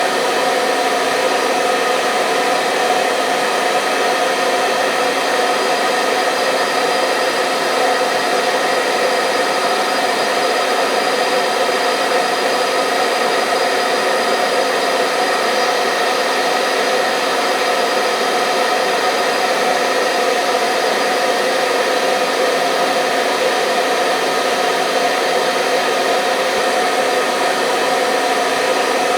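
Hair dryer running continuously at a steady pitch, a constant motor-and-fan hum with rushing air and no changes.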